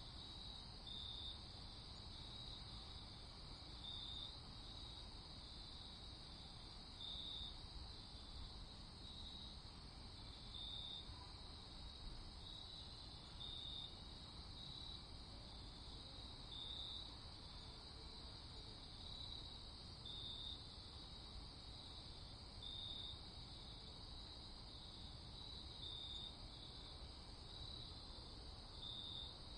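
Crickets chirping at night: a steady high trill with louder chirps standing out about once every second or two, over a faint low background hiss.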